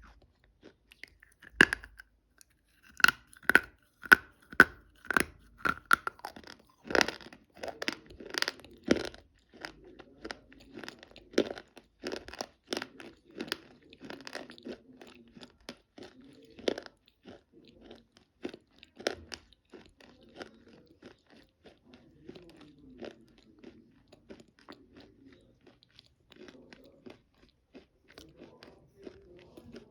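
Close-miked biting and chewing of chalk: sharp, loud crunches begin about a second and a half in and come thick for several seconds, then give way to quieter chewing with occasional smaller crunches.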